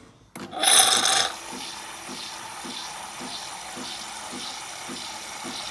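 Nespresso Lattissima One capsule machine starting a cappuccino cycle: a loud hiss about half a second in, then steady running with a soft regular pulse nearly twice a second.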